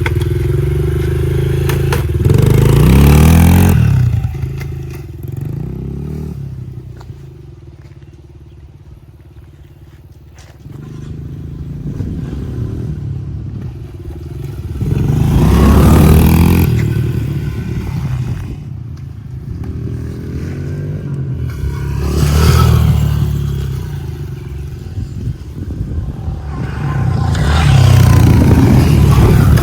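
A small four-stroke Honda CRF kids' dirt bike revving as it is ridden around a dirt track. It grows loud and fades away several times, loudest about 3, 16, 22 and 28 seconds in and quietest around 9 seconds in.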